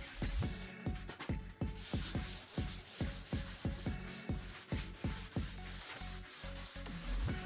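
Sandpaper on a sanding block rubbed back and forth over bare oak trim in repeated hand strokes, with background music and a steady beat underneath.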